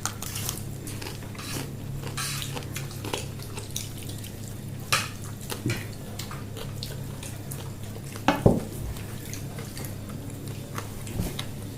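Spoons and plates clinking and scraping as people eat, scattered small clicks with a louder knock a little past the middle, over a steady low hum.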